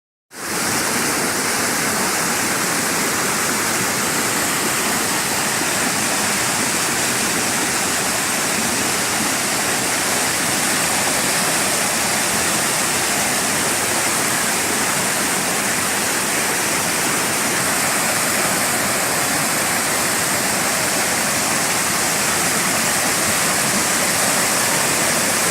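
Waterfall pouring into a stream: a steady, loud rush of water that does not change.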